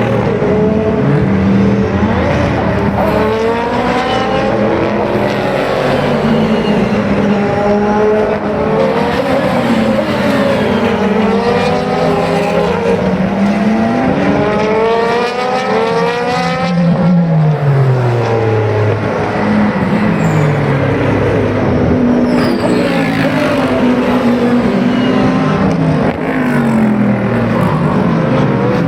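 Super GT race cars, among them the Subaru BRZ GT300, braking into a corner. Several engines overlap, their pitch dropping step by step as they downshift and then climbing again as they accelerate out.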